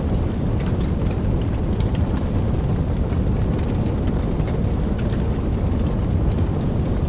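Wood fire burning: a steady low rumble of flames with scattered soft crackles and small pops.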